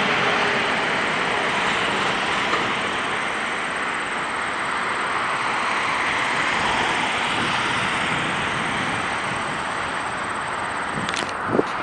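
Jet airliner engine noise, a steady roar that eases a little in the first couple of seconds as the aircraft moves off. A brief click comes near the end.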